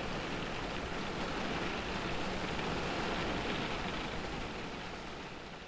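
Rain falling on a car's roof and windows, heard from inside the car: a steady, even hiss that starts fading out near the end.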